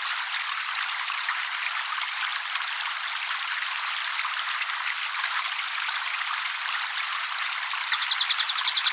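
Steady trickling water runs on its own. Near the end, a rapid string of high, evenly repeated cililin song notes breaks in at about eight notes a second.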